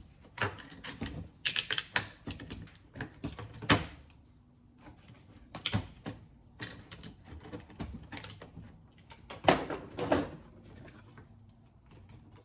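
Irregular clicking and knocking of hand tools and loose parts on an electronics circuit board as transformers and copper coils are worked off it, with a few sharper knocks.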